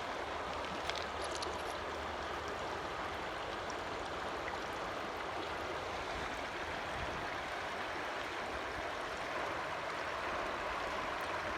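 Creek water running high, a steady, even rush of flowing water.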